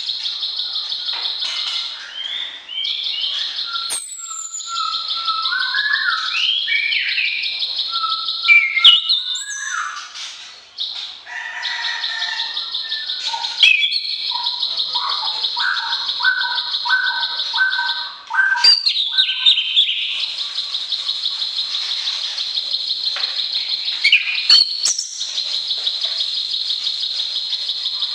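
Songbirds singing: orange-headed thrush and plain prinia. A fast, buzzy trill runs almost throughout, twice stopping briefly. Over it come varied whistled phrases with rising and falling glides, thickest in the middle stretch before the trill takes over again.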